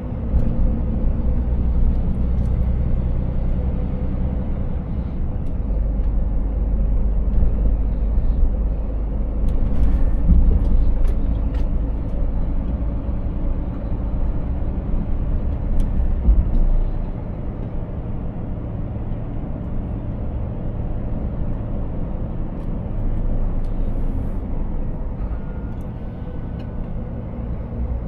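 Scania S 500 diesel truck driving on the road: steady engine drone and tyre rumble, heavy in the low end. The deepest rumble eases a little about two-thirds of the way through.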